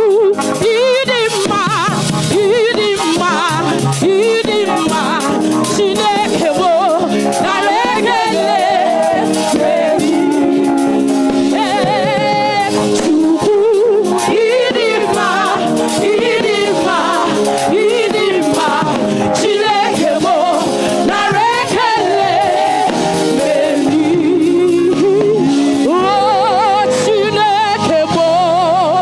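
Gospel worship music with a singer and sustained band chords, the voice sliding and wavering with vibrato.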